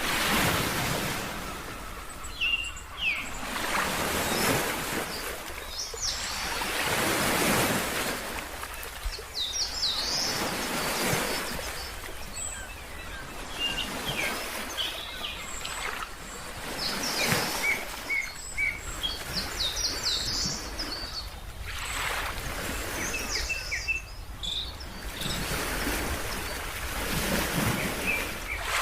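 Ocean waves washing in, the surf swelling and fading every few seconds, with birds chirping in short, quick calls over it.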